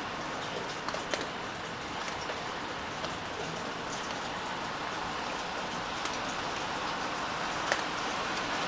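Steady rain falling, with scattered sharp ticks of single drops striking a hard surface, one louder than the rest near the end.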